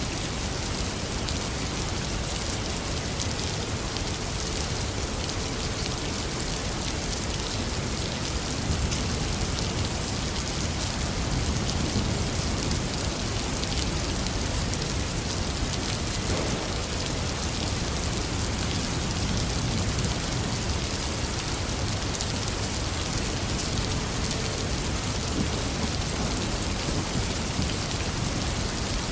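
Heavy rain falling steadily, with a low rumble of thunder swelling now and then.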